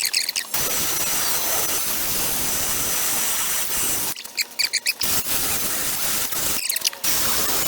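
A rotary grinder running steadily with a faint high whine as it ports an aluminum intake manifold. It stops briefly about four seconds in and again near the end, and squeaky chirps are heard in the pauses.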